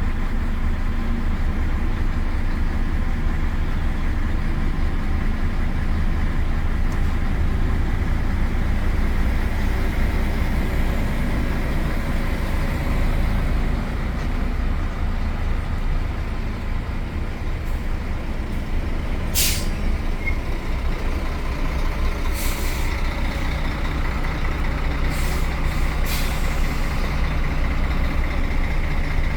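Heavy truck's diesel engine running steadily on the road, with a slight easing in level about halfway through. In the second half come a few short, sharp hisses of released air.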